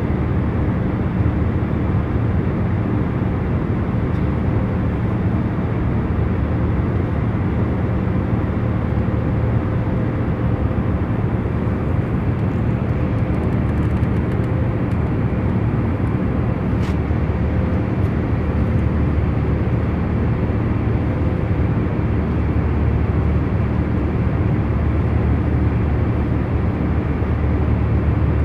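Airliner cabin noise in cruise: a steady, unchanging low rumble with a faint hum running through it. There is one faint click about halfway through.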